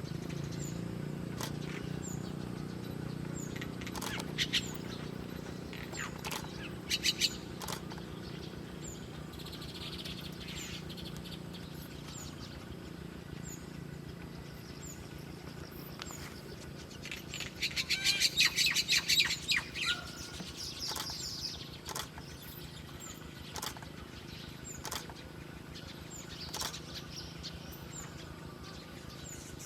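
A small bird flapping its wings in short bursts, with chirps. The loudest part is a quick run of rapid flutters about two-thirds of the way through. A steady low hum lies underneath.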